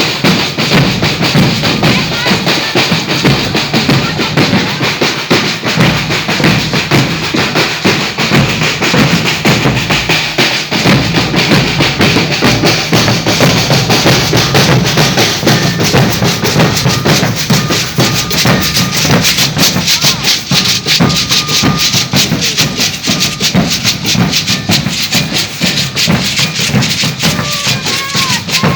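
Maracatu de baque virado drum group playing a dense, driving rhythm on alfaia bass drums, snare drums and shakers.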